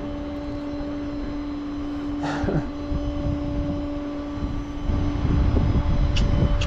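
Flatbed tow truck's engine and bed hydraulics running during unloading: a steady hum that cuts off about five seconds in, followed by a louder low rumble.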